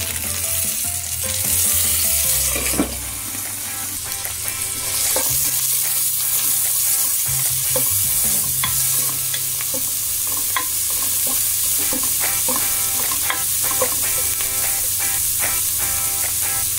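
Chopped onion, ginger and garlic sizzling in hot oil in a frying pan, with a steady hiss and frequent light ticks of a spatula stirring against the pan.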